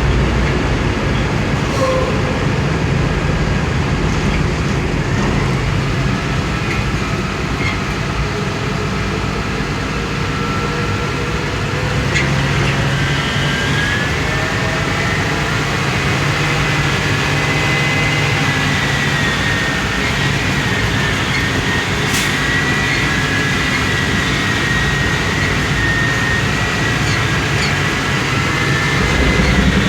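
Ottawa shunt truck's engine running steadily with a low hum and a high whine that wavers slightly in pitch.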